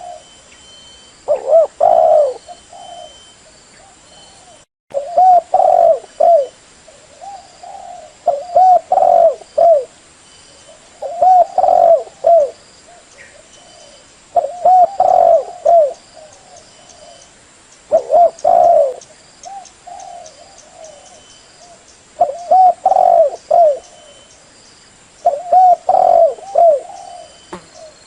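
Spotted dove cooing as a decoy call for luring wild doves: a multi-note coo phrase repeated about every three seconds, around eight times, with a brief cut-out in the sound near five seconds.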